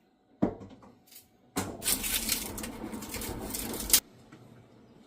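A sharp clatter of kitchenware, then a steady rushing noise for about two and a half seconds that cuts off abruptly.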